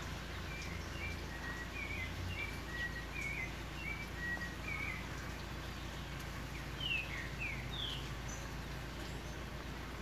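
Green-winged saltator (trinca-ferro) singing: faint short notes about twice a second, then a few quick descending slurred whistles about seven seconds in. A steady low rumble runs underneath.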